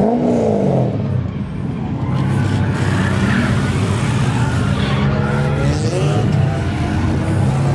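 Drift car engine revving: pitch falls away just after the start and climbs again about five seconds in, over a steady rush of noise.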